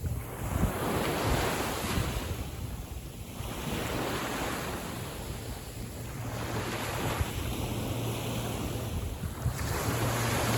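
Small waves of a calm sea breaking and washing in, swelling and fading every two to three seconds, with wind rumbling on the microphone.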